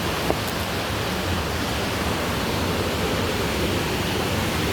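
Steady rushing of a waterfall, a loud even roar of falling water with no change in level.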